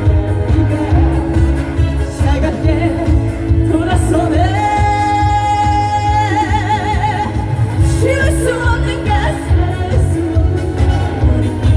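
A female trot singer singing live over loud backing music with a steady bass beat. About halfway through she holds one long note that ends in vibrato.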